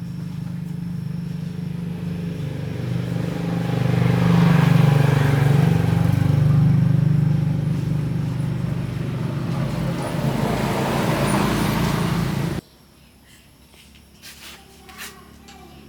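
Air compressor's motor running steadily, rising in level for a few seconds in the middle, then stopping abruptly near the end, followed by a few faint clicks.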